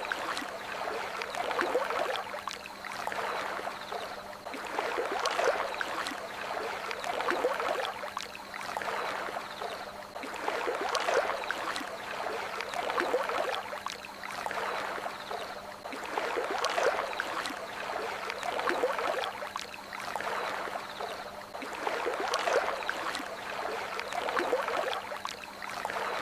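Water lapping and gurgling with small splashes, swelling and easing in a regular rhythm about every two to three seconds.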